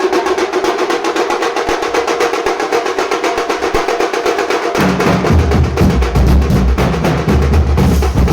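Nashik dhol ensemble drumming: a fast, continuous roll of sharp high drum strokes, with deep bass dhol beats coming in about five seconds in and filling out the rhythm.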